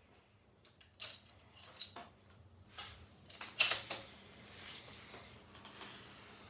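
A rifle bolt being worked between shots: a few separate metallic clicks, then a louder clatter about three and a half seconds in.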